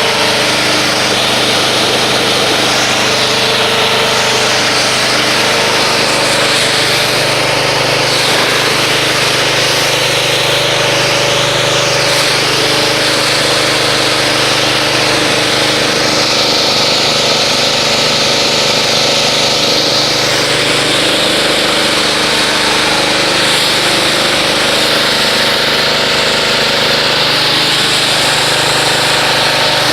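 Pressure washer running steadily while its spray rinses dried car-wash foam off a car's paint, a constant motor drone under a loud hiss of water.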